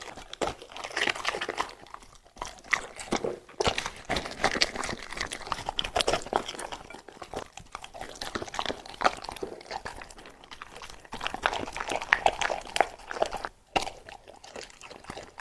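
A dog eating, chewing and crunching mouthful after mouthful with a few short pauses.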